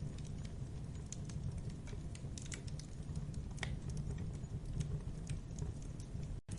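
Wood fire crackling: irregular sharp snaps and pops over a steady low rumble of burning. The sound drops out completely for a split second near the end.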